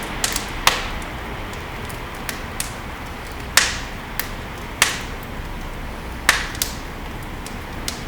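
Wood fire burning in a fireplace, crackling: a steady low hiss with about a dozen sharp pops at irregular intervals, the loudest a little past three and a half, nearly five and about six seconds in.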